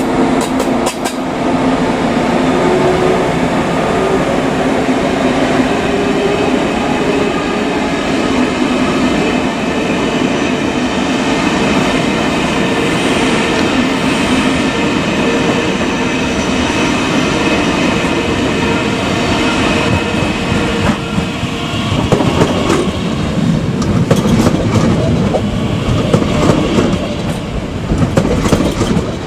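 A train running past or through the station: a steady hum with a few held tones, then, about three-quarters of the way through, a rougher, louder rumble with wheels clicking over the rail joints.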